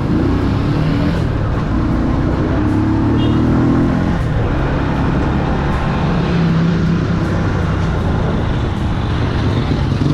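Motorbike engine running while riding, under a steady rush of wind and road noise; its pitch climbs over the first four seconds, then drops and settles lower.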